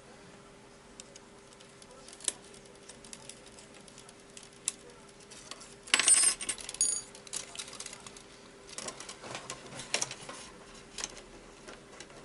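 Light clicks and taps of small parts being handled while an RC toy helicopter is taken apart. About six seconds in, a small metal object drops onto a hard surface and clinks, ringing briefly.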